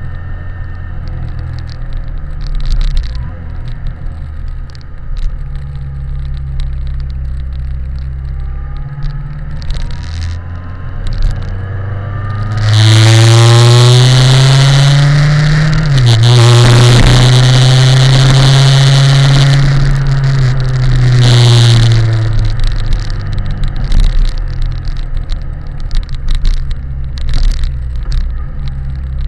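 BMW K1100LT motorcycle's inline-four engine running under way, with wind rush on the microphone. About 13 s in it gets much louder as the revs climb, drop suddenly with a gear change, hold high, then ease off near 22 s.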